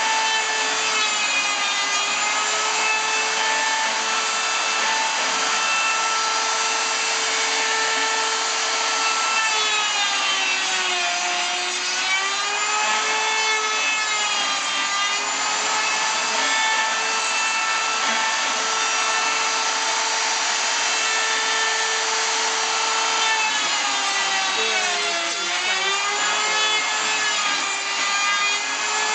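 Electric power saw cutting wood. The motor's steady whine drops in pitch twice under load, about a third of the way in and again near the end, then recovers.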